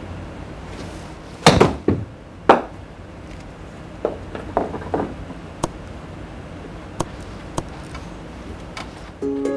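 Golf clubs striking balls: a sharp crack about a second and a half in, two more strikes within the next second, then fainter clicks of further shots. Music starts near the end.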